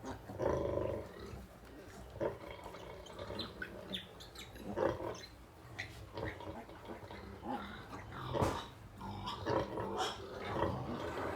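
Sow and newborn piglets grunting and squealing in short, irregular calls while the piglets suckle.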